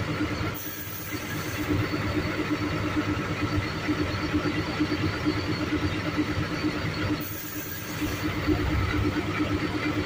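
Truck engine idling steadily, a constant hum over a low rumble, dipping briefly twice.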